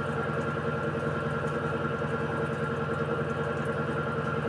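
Electrolux Essential Care 14 kg (model LED14) washing machine running its spin cycle: a steady motor hum and whine with several constant tones and no change in level.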